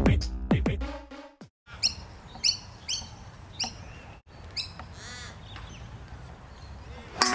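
Electronic music fades out in the first second or so, then a bird calls about six times in quick succession, short high calls over faint outdoor background noise. Different music with a guitar starts abruptly near the end.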